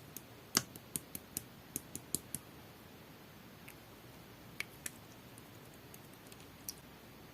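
Pink clear slime with a jelly feel being pressed and worked by hand, giving small sharp clicks and pops: a quick run of about eight in the first couple of seconds, then a few scattered ones.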